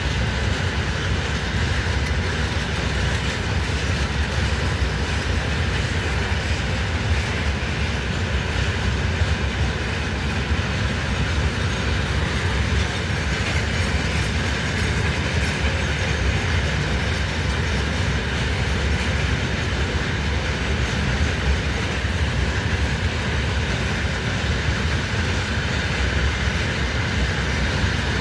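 Freight train wagons rolling past steadily on the rails, with wheel and rail noise that holds even the whole time.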